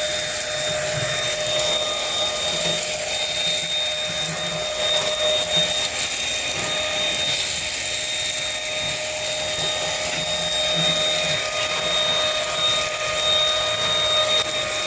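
Dirt Devil Simpli-Stick stick vacuum running steadily, its motor giving a high-pitched whine over a rush of air, as it is pushed over a deck.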